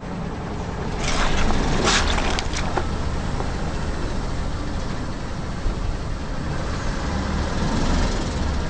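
A car engine running at low revs, with a few crackling crunches about one to two and a half seconds in: objects being crushed under the tyres.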